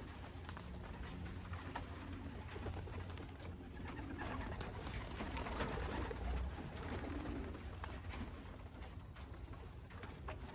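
Racing pigeons cooing: repeated low, rolling coos that rise and fall, over a low rumble that swells about six seconds in.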